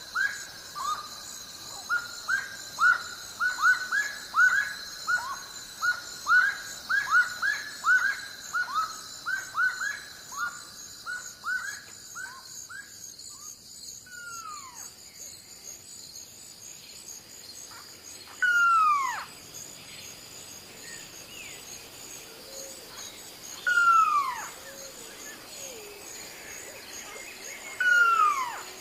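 Birds calling: a run of quick rising chirps, about two a second, for the first dozen seconds, fading out. After that come four loud falling calls, each about a second long and spaced four to five seconds apart, over a steady high-pitched hum.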